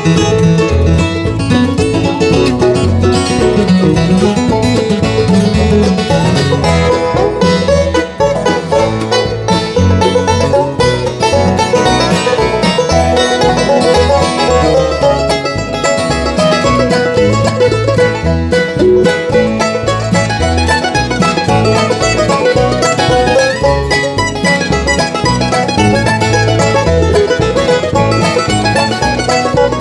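Bluegrass band playing an instrumental break: picked banjo and guitar over a steady bass beat.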